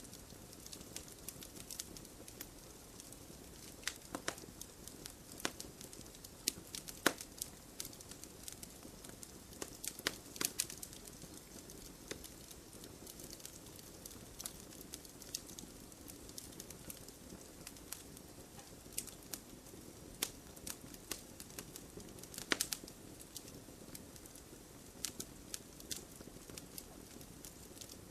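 Wood campfire crackling and popping: irregular sharp snaps, a few louder pops, over a low steady hiss of burning.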